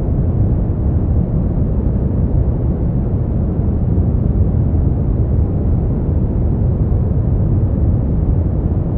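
Continuous synthetic sleep-aid noise, sold as white noise but weighted heavily toward the low end: a steady, deep whoosh with no high hiss, unchanging throughout.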